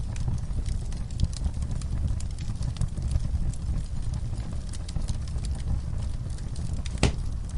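Wood campfire crackling: irregular small pops and snaps over a steady low rumble, with one louder snap about seven seconds in.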